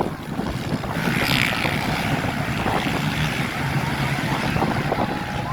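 Motocross dirt bike engines running during a race, a steady mechanical noise that grows brighter about a second in.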